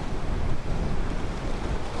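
Ocean surf washing onto a beach: a steady, noisy rush that swells a little, with wind on the microphone.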